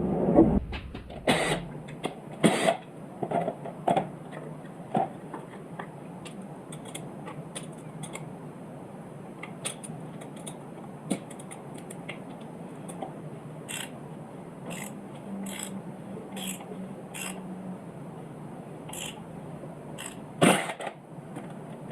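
Hand tools at work on a bare V8 engine block: a socket ratchet clicking and metal parts and tools knocking and clinking as bolts and parts come off, in irregular sharp clicks spaced a second or more apart.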